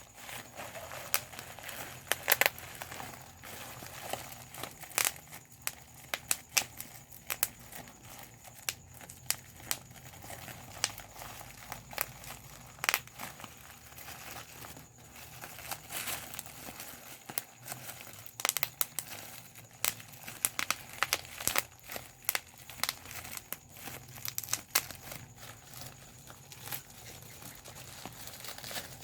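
Bubble wrap being popped: irregular sharp pops, sometimes several in quick succession, over the crinkling of the plastic sheet.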